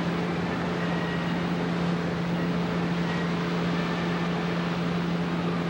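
Sightseeing boat's engine running steadily, a constant low hum with an even hiss over it.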